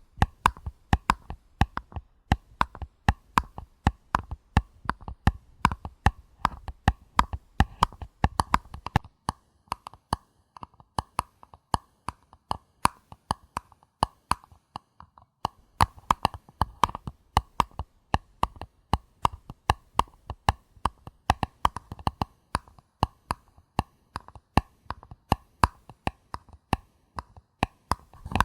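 Paper cups being tapped in quick, uneven runs of light, crisp taps, several a second.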